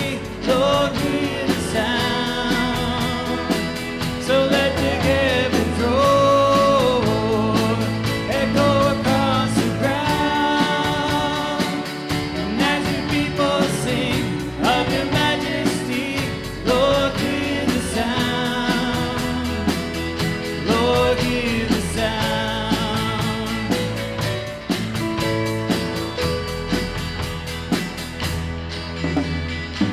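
Church worship band playing a praise song, sung voices over guitar and band chords, the music dying away near the end.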